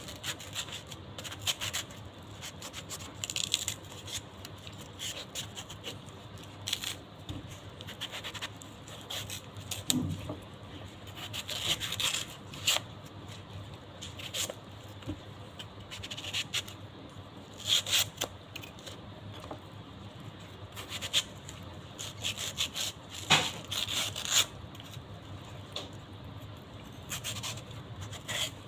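Close-miked eating sounds of mango with shrimp paste being chewed, with wet mouth clicks and smacks coming irregularly, several a second.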